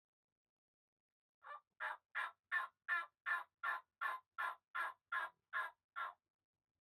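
Turkey yelping: a run of about thirteen evenly spaced yelps, roughly three a second, starting about a second and a half in and stopping about a second before the end.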